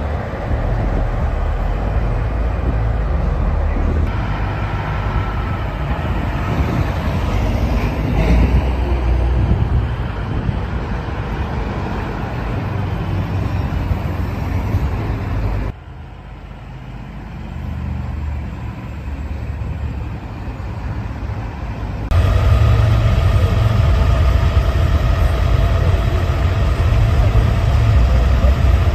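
Heavy vehicle engines running, with a loud low rumble that changes abruptly several times, dropping suddenly about halfway through and coming back louder a few seconds later.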